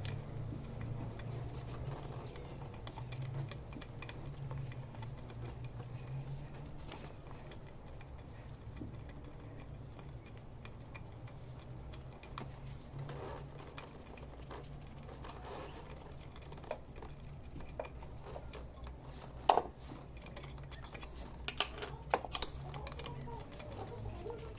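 Hand tools and metal parts clicking and clinking during work on a BMW N62 V8's throttle body, a few sharp clinks coming near the end, over a steady low hum.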